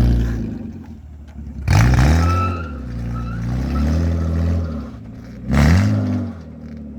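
BMW E36 engine revving: two sharp bursts of throttle, about two seconds in and again about five and a half seconds in, with the engine pulling at a steadier pitch between them.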